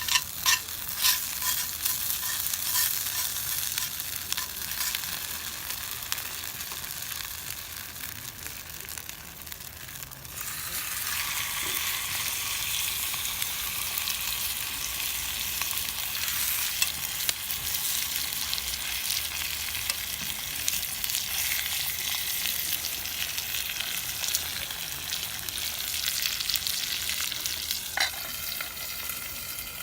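Food frying in a pan, a steady crackling sizzle with sharp pops in the first seconds. About ten seconds in, the sizzle turns suddenly louder and denser.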